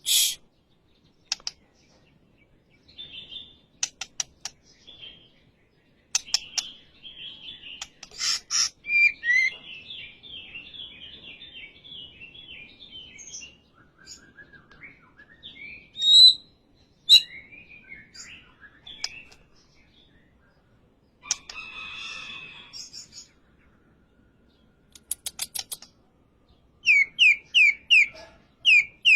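White-rumped shama (murai batu) singing in varied, broken phrases of trills and whistled notes, with sharp clicks between them and a run of about five quick repeated notes near the end.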